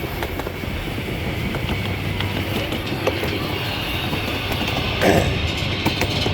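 A train rolling steadily along the track, its wheels clicking and clattering over the rails over a continuous low rumble, with a brief louder sound about five seconds in.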